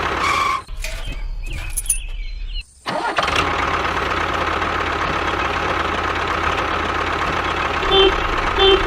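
Small motor of a homemade mini tractor running steadily with a high whine. The sound breaks off briefly about a second in and resumes about three seconds in.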